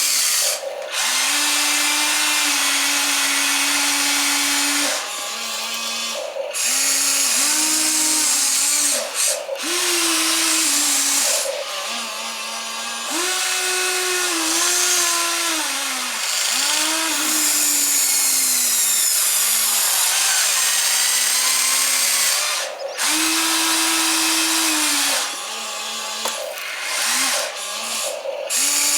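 Small electric motors and gear trains of a radio-controlled model excavator whining as the arm, bucket and swing are worked. The whine runs in short stretches and shifts up and down in pitch as each motion starts, stops or takes load, with a few brief pauses.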